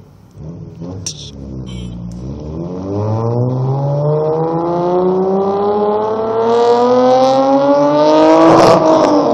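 2003 Hyundai Tiburon GT's 2.7-litre V6 accelerating hard through a full 3-inch exhaust with a Magnaflow muffler. The exhaust note climbs steadily in pitch and grows louder, then breaks off and drops sharply near the end.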